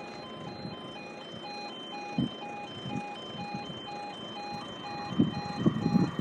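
Level crossing audible warning alarm sounding: an electronic two-tone alarm alternating rapidly and steadily between two pitches, warning that the barriers are down and a train is approaching. A few low thuds come in near the end.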